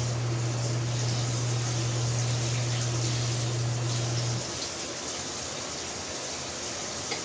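Water running steadily into a portable washing machine's tub as it fills for the rinse, with a steady low electric hum that stops about four and a half seconds in.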